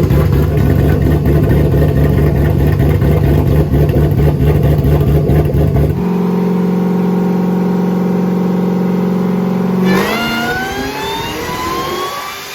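Supercharged V8 running on methanol, under load on a chassis dyno. It runs loud and steady for about six seconds, then settles into a cleaner held note, and from about ten seconds in a whine climbs in pitch as the engine pulls.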